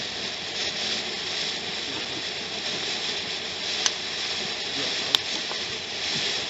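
A lit ground firework sprays sparks with a steady, even hiss, and two sharp pops crackle out of it, one a little before the middle and one more past it.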